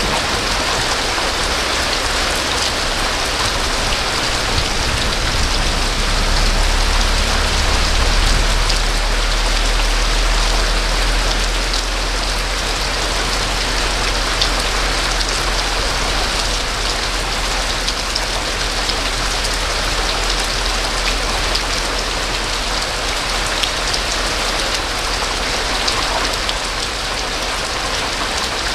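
Rain falling steadily, with scattered sharp drop ticks. A low rumble swells and fades away over the first ten seconds or so.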